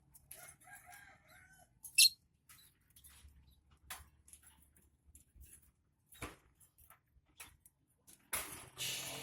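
A rooster crowing faintly in the background near the start, amid scattered light clicks and taps, a sharp high squeak about two seconds in, and a loud rustling noise near the end.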